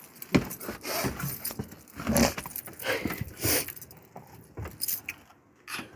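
Irregular rustling and clinking handling noises, a quick jumble of small clicks and rubs that stops just before the end.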